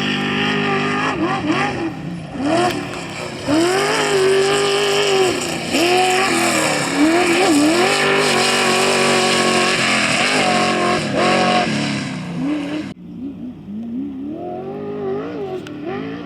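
Off-road race vehicle engine revving hard, its pitch climbing and dropping again and again with throttle and gear changes. About thirteen seconds in the sound cuts suddenly to a quieter engine revving.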